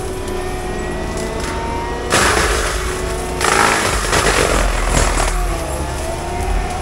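Cat 299D3 compact track loader running a forestry mulcher, its engine steady under load. There are two louder stretches of cutting noise about two and three and a half seconds in, as the head bites into brush.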